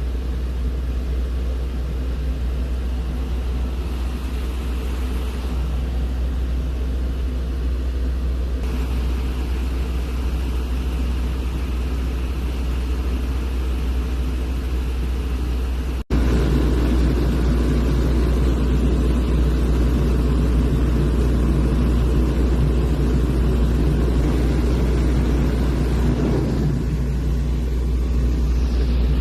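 Small airplane's piston engine and propeller droning steadily in flight, heard from inside the cabin as a constant deep hum. About halfway through it breaks off for an instant and comes back louder.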